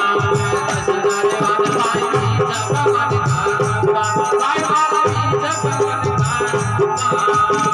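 Bhajan music: held steady instrumental tones over a regular hand-drum rhythm, with a shaken rattle-type percussion ticking on top.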